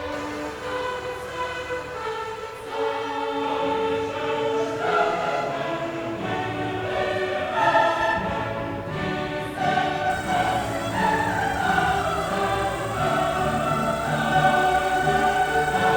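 Background music: a choir singing sustained, slowly moving chords over an orchestral accompaniment.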